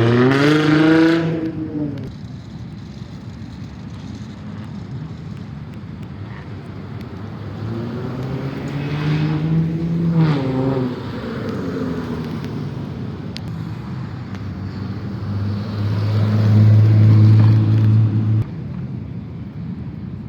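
A car engine revving up and falling back twice, then holding a steady note for about three seconds before it cuts off sharply.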